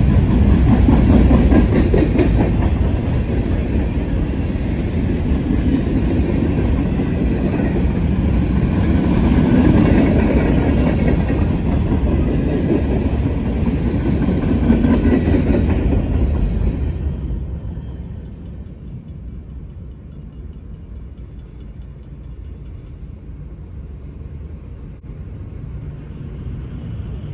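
Freight train of empty grain hopper cars rolling past, a loud rolling noise of wheels on rails that rises and falls. About 17 seconds in it drops off quickly, leaving a fainter rumble as the train moves away.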